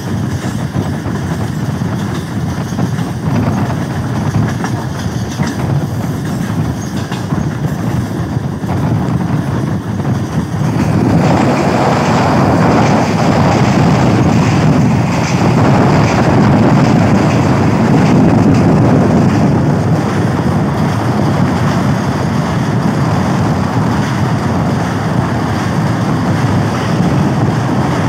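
Train running on the rails, wheels clattering over the track, growing louder about eleven seconds in.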